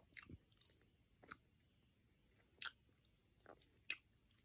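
Faint mouth clicks and smacks of someone chewing a soft chewy candy: about five short sounds spread over four seconds, with near silence between them.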